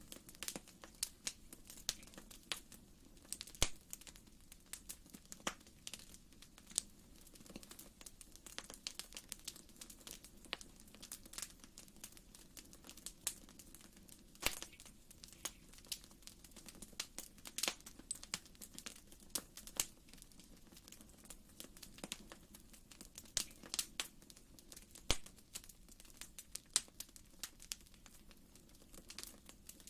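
Wood fire in a fireplace crackling, with many irregular sharp pops and snaps over a faint steady low rumble.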